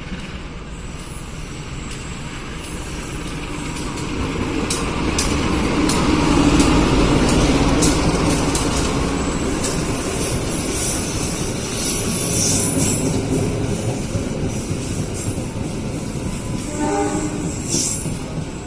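A train running through the station: a rumble that builds to its loudest several seconds in, with wheels clicking over rail joints and high wheel squeal.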